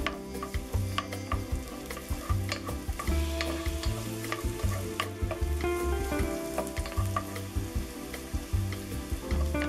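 Sliced red onion and garlic sizzling in hot oil in a pot while a wooden spoon stirs them, with frequent light taps and scrapes of the spoon against the pan. Background music with a repeating bass line plays underneath.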